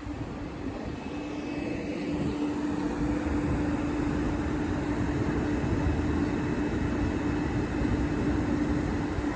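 Class 450 electric multiple unit standing at the platform, giving a steady electrical hum with one held tone that sets in about a second in, over a low rumble.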